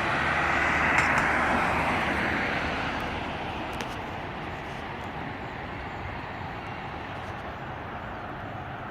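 A vehicle passing close by: its noise swells to a peak about a second in and fades away over the next few seconds, leaving a steady background hum of traffic.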